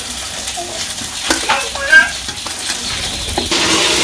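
Moringa-leaf fritters sizzling as they deep-fry in hot oil, with a metal spatula scraping and turning them in the pan now and then; the loudest scrape comes about two seconds in.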